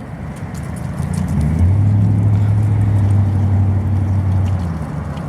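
A motor vehicle passing by, its low engine hum swelling and then fading away.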